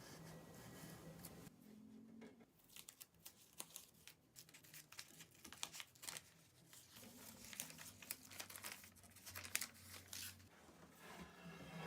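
Faint, irregular scratching and rustling as an oak handle blank is worked by hand, with a faint low hum underneath.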